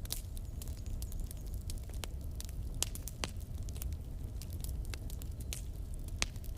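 Wood fire burning in a fireplace: a steady low rumble of the flames with irregular crackles and sharp pops from the burning logs, a few louder pops standing out.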